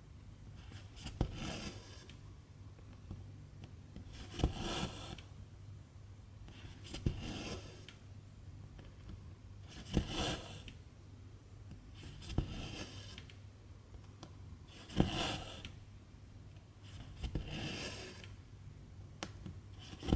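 Hand cross-stitching with silk thread: each stroke is a sharp pop of the needle through the fabric, then a short swish of thread drawn through, repeating about every two and a half seconds. A steady low hum runs underneath.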